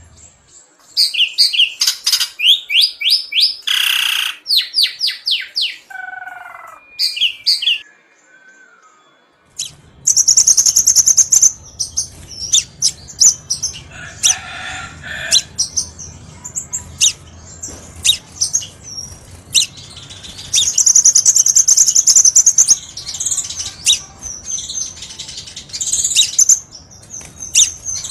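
Crimson sunbird (kolibri sepah raja) singing: rapid, high-pitched chirps and trills in bursts, used as a lure and training call. About a third of the way in, a low steady background rumble starts under the song.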